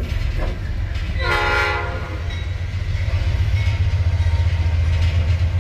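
Train's horn sounding one short blast about a second in, over the steady low rumble of the train.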